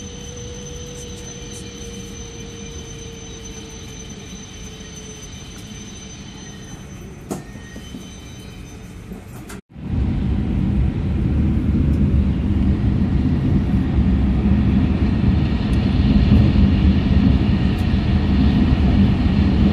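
Cabin sound of an E6 series Shinkansen: first a quieter interior hum with thin steady whine tones as the train comes to a stop at a station, and a single click about seven seconds in. After a sudden cut about ten seconds in, the loud low rumble of the train running at speed, growing slightly louder.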